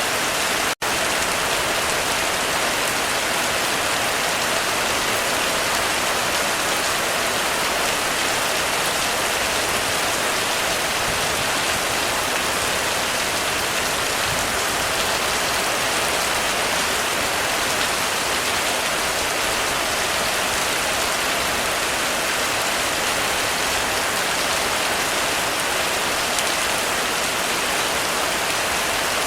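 Heavy rain falling steadily on a roof, a dense even patter, with a split-second break in the sound just under a second in.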